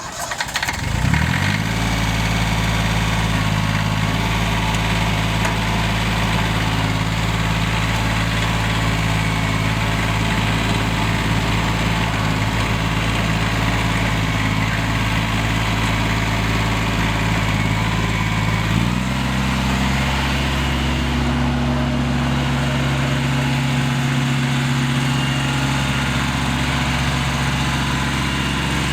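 Yanmar 180D diesel tractor engine starting, catching within about a second and settling into a steady idle. About 19 seconds in the engine speed steps up a little and holds there.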